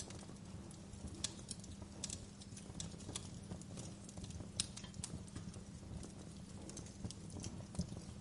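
Fire burning with a steady low rumble and irregular sharp crackles and pops, two of them louder, about a second in and near the middle.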